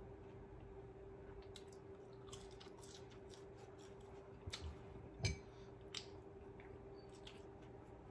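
Close-up chewing of fried food: scattered small crunchy clicks from the mouth over a faint steady hum, with a few louder knocks around the middle, the loudest about five seconds in.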